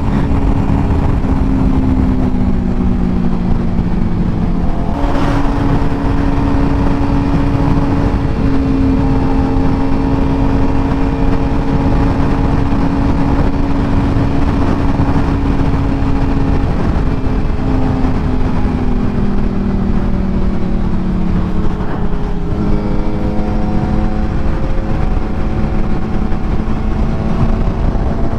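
Sportbike engine running at road speed under a steady rush of wind and road noise, its pitch holding, then stepping up or sliding down several times as the rider changes throttle and gears.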